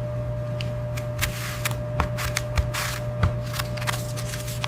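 Industrial work noise: a steady low machinery hum with a faint steady tone above it, scattered metallic clicks and knocks, and two short bursts of hiss.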